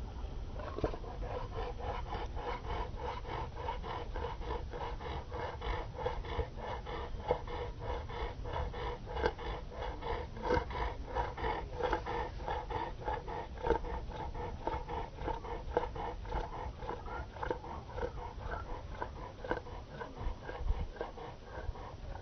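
A dog panting hard, a quick, even rhythm of short breaths kept up throughout.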